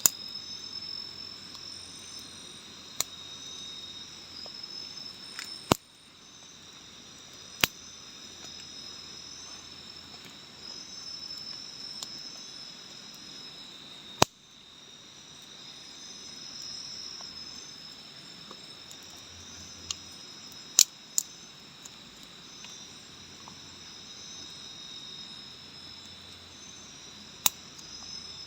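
Steady chorus of forest insects trilling in high overlapping tones, with about ten scattered sharp clicks.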